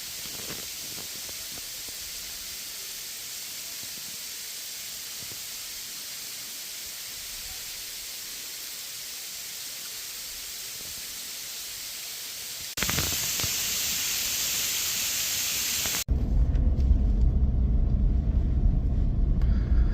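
A steady hiss, louder from about thirteen seconds in. It gives way about sixteen seconds in to a heavy low rumble like wind buffeting the microphone.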